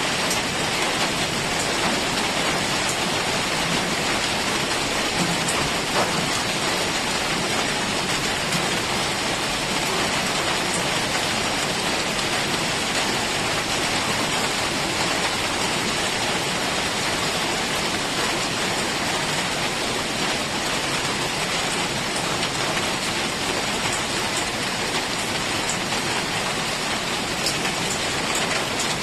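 Heavy rain falling steadily on jungle foliage, an even hiss with scattered drop ticks.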